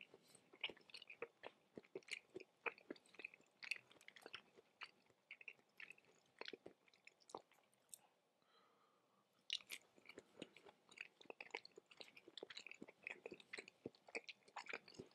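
Close-miked chewing of raw tuna sashimi: a dense run of small mouth clicks and smacks, with a brief lull about halfway through.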